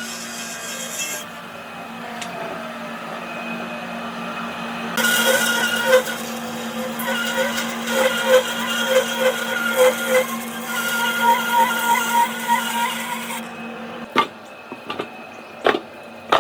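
An electric power tool's motor running with a steady hum, getting louder and whirring from about five seconds in until near the end, followed by a few sharp knocks.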